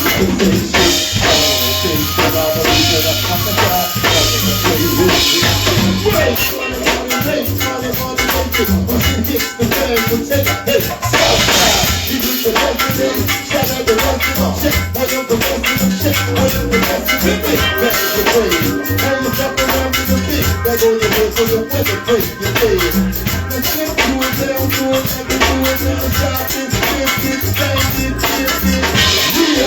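A band playing a song, with a bass line changing notes over a steady, busy percussion beat.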